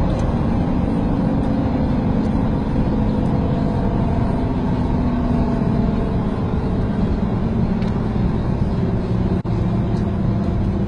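Steady motor-vehicle and road noise with a low engine hum, briefly cutting out once near the end.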